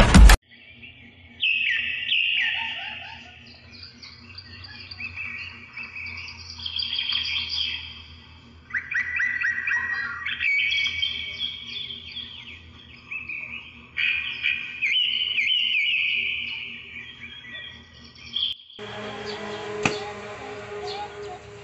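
Small birds chirping in repeated bursts of quick, high calls that glide up and down, with short pauses between bursts. The chirping cuts off suddenly near the end and gives way to a quieter background with a single click.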